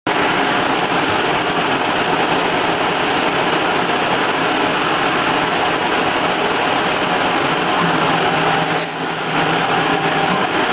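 Kress router spindle running at about 20,000 rpm while a 2 mm two-flute end mill cuts 3 mm aluminium on a home-built CNC mill, fed slowly and dry. A loud, steady machining noise that dips briefly about nine seconds in.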